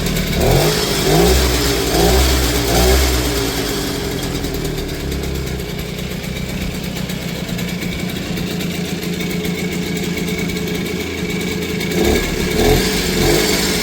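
Di Blasi R2 folding motorcycle's 50cc two-stroke Franco Morini engine running after a fresh start, revved in short blips about four times at first, then settling to a steady idle, with a couple more blips near the end.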